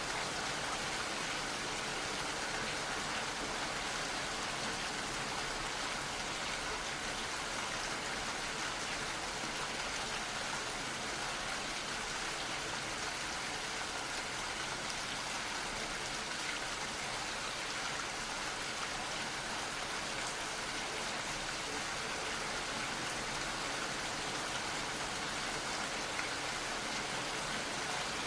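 Steady gentle rain falling, a continuous even hiss of many fine drops.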